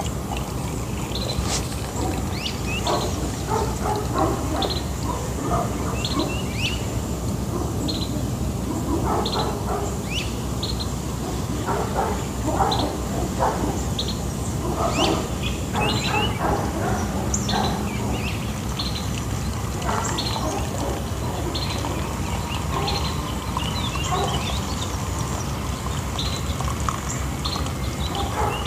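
Birds calling and chirping, short repeated calls scattered throughout, over a steady low rumble.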